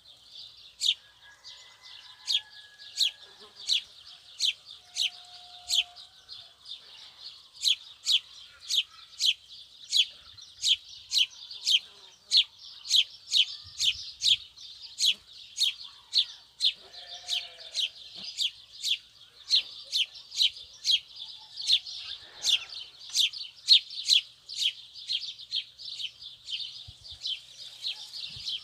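Outdoor wildlife sound: a short, high, falling chirp repeated one to two times a second over a steady high-pitched hiss, with a few faint lower calls now and then.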